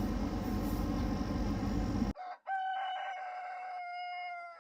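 A steady low hum and rushing noise, cut off about two seconds in. A rooster then crows: a short note, then one long held note that sags slightly at the end.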